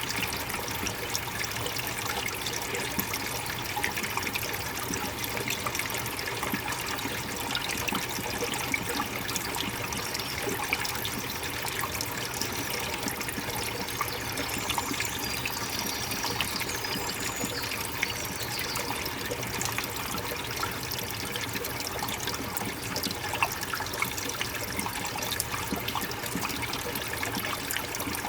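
Water running and trickling over rocks in a stream, a steady splashing with many small fine drips.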